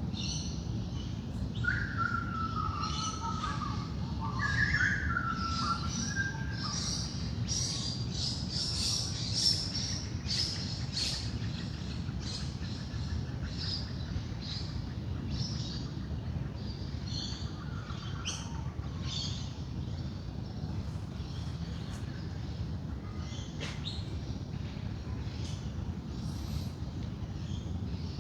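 Wild birds' dawn chorus: many small birds chirping and twittering high, with a lower whistled call that falls in pitch twice in the first few seconds, over a steady low background rumble.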